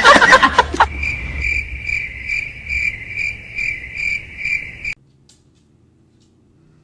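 Insect-like chirping, a high steady pitch pulsing about two and a half times a second, typical of a cricket; it cuts off suddenly near the end and only a faint low hum is left. A loud sound with a wavering pitch, carried over from the clip before, dies away in the first second.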